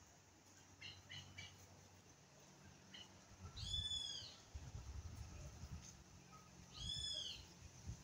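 A bird calling twice, each call one rising-then-falling note, about three seconds apart, with a few short faint chirps about a second in.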